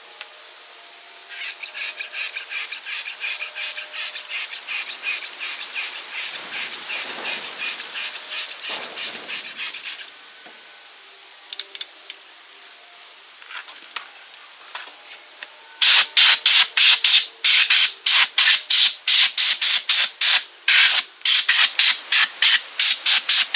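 Rapid back-and-forth rasping strokes of a hand tool worked against a surface, about four a second. A first run goes on for several seconds. After a pause with a few light clicks, a louder run of strokes starts about two-thirds of the way in.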